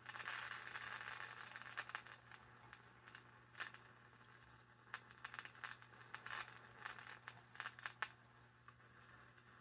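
Faint static from a Hallicrafters S-108 shortwave receiver: a hiss that swells in the first second or two and then dies down, followed by scattered crackles, with a steady low hum underneath.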